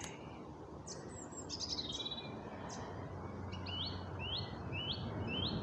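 Birds singing: a few high chirps, then a run of four short rising notes about two a second near the end, over steady low background noise.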